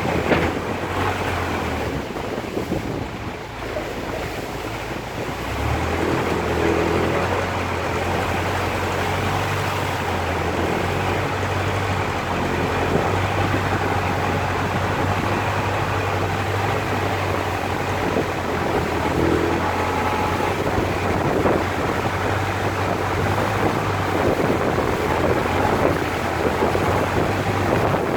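A boat's engine running steadily under rushing water and wind buffeting the microphone; the engine drops lower for a few seconds, then picks up again about five seconds in.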